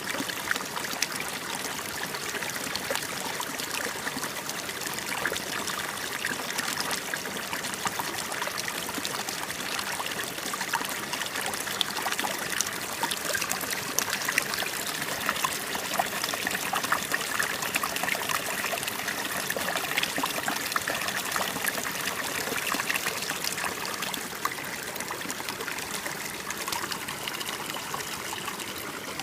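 Shallow running water trickling and splashing steadily, with many small sharp splashes throughout.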